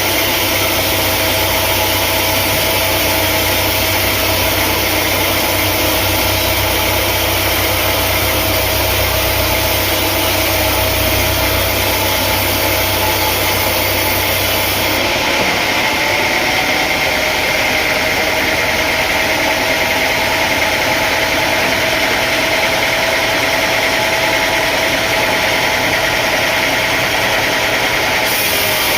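Engine-driven machinery running steadily with a loud, even noise. A deep hum drops away abruptly about halfway through.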